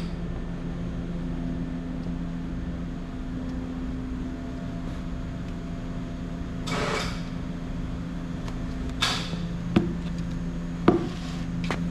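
An engine idling steadily, with two brief rushing sounds in the middle and two sharp knocks near the end.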